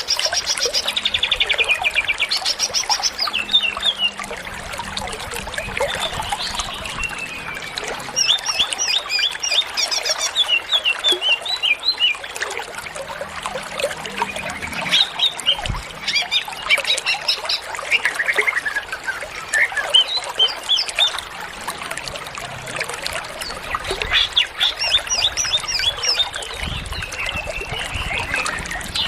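Cucak ijo (green leafbird) singing steadily in varied phrases of rapid trills and chirps every few seconds, over a steady hiss. This is its full, continuous 'gacor' song with mimicked fills (isian).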